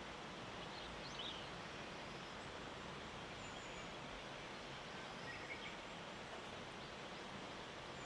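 Steady outdoor background hiss of a misty mountain morning, with a few faint, short bird calls about a second in and again around five and a half seconds.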